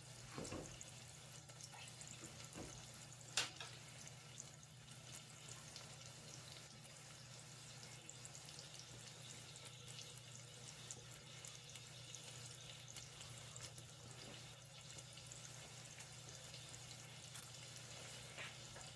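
Faint, steady sizzle and hiss of food cooking in pots on the stove, with a single sharp click about three and a half seconds in.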